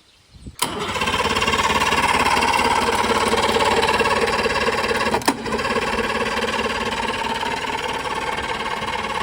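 Boat's outboard engine being cranked on its electric starter, turning over steadily without catching. It starts abruptly just under a second in, with a sharp click about five seconds in.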